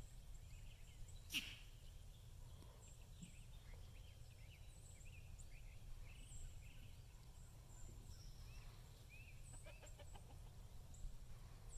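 Near silence with faint, scattered short bird chirps throughout and a single click about a second and a half in.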